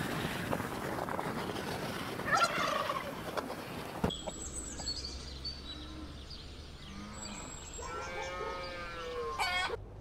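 Domestic tom turkey gobbling once, about two seconds in, over steady background noise. After a cut, a long drawn-out cattle low near the end.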